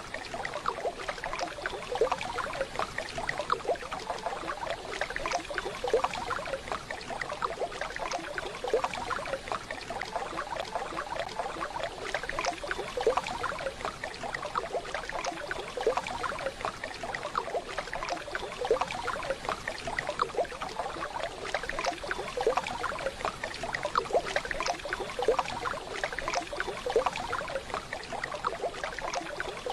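Waterfall water running steadily, a dense, even babble of splashing and trickling.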